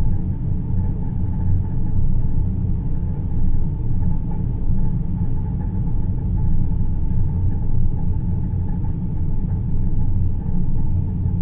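Space-ambience sleep soundscape: a steady deep rumbling noise, strongest in the bass, with a faint steady hum above it and gentle small swells in level. There is no music.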